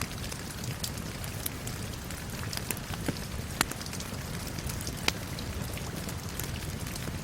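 Steady rain with a crackling wood fire over it: many small sharp pops and snaps, the loudest about three and a half and five seconds in.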